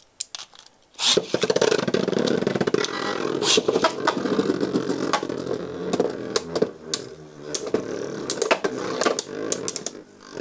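Beyblade Burst spinning tops battling in a plastic stadium. A steady whirring scrape, broken by many sharp clicks as the tops collide, starts about a second in.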